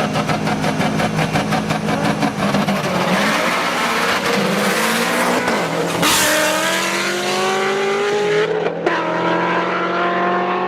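A tuned car engine pulsing rapidly at first, then accelerating hard with a steadily rising pitch. Near the end there is a short break and a small drop in pitch, a gear change, before it climbs again.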